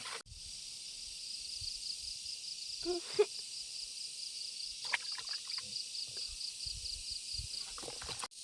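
High-pitched rhythmic chirping, about four pulses a second, from a calling insect or frog, over a steady high hiss. A sharp knock comes about three seconds in, with lighter knocks near five seconds and toward the end.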